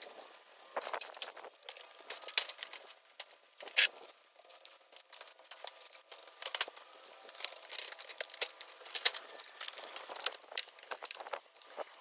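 Rapid, irregular clicks, taps and rattles of gutter installation work, sped up, with a few sharper knocks standing out.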